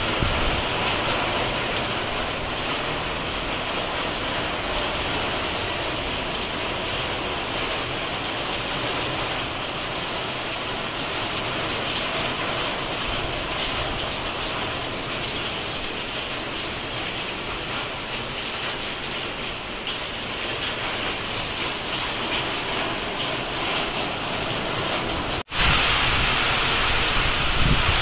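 Steady downpour of rain, a constant hiss of falling water. About 25 s in there is a brief drop-out, and then a louder stretch of rain.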